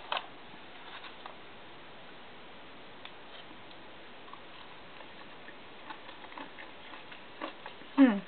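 Faint, scattered mouth clicks and small taps of someone eating a chicken tender dipped in honey mustard, over a low hiss. Near the end, one short voiced sound rising in pitch.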